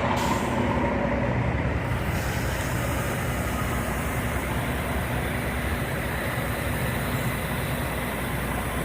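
Steady vehicle noise: a low engine hum and road rumble that holds even throughout.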